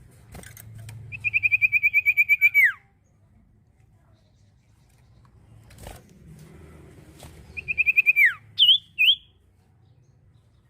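Iora (cipoh) singing: a fast, even trill of whistled notes ending in a falling slur. A second, shorter trill several seconds later is followed by two sharp single notes.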